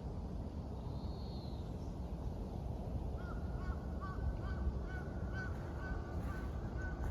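A bird calling a run of short, evenly spaced notes, about two a second, from about three seconds in, over a steady low rumble; a faint high whistle about a second in.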